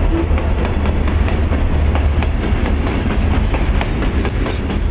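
Open-top hopper cars of a traprock freight train rolling past close by: a steady rumble of steel wheels on the rails, with repeated clacks as the wheels cross rail joints.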